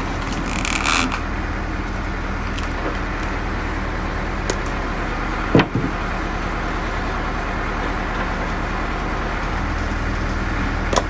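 Tractor engine running steadily, driving a hydraulic log splitter. A brief crackle, wood giving way, comes just under a second in, and one loud sharp knock about halfway through.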